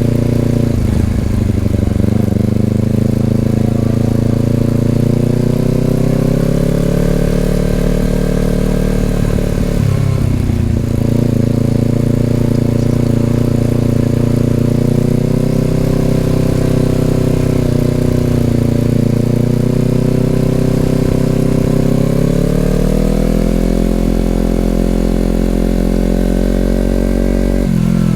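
2020 Honda CBR250RR's parallel-twin engine running through an Over Racing aftermarket exhaust while riding. The engine note holds steady, with sharp dips in pitch about a second in, about ten seconds in and near the end, typical of gear changes, and a slow climb in pitch about two-thirds of the way through.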